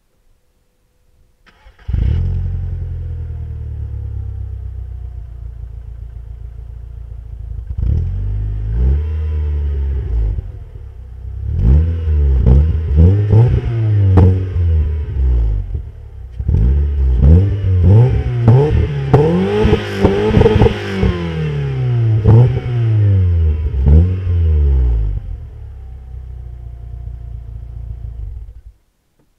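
Škoda Octavia engine and tuned exhaust: the engine starts about two seconds in and idles, then is revved in repeated blips, the pitch rising and falling, with a few sharp cracks among them. It drops back to idle and cuts off near the end.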